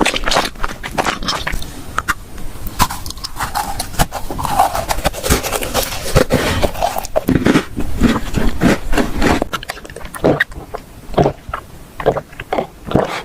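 Close-miked ASMR eating sounds: a person biting and chewing food, with wet smacking and crunching clicks that come thick and fast, then thin out to separate smacks over the last few seconds.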